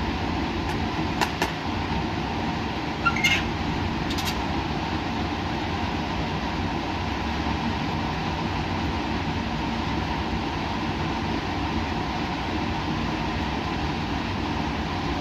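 Steady hum and hiss of laboratory equipment and ventilation, with a few short clicks a second or so in and again around three to four seconds in.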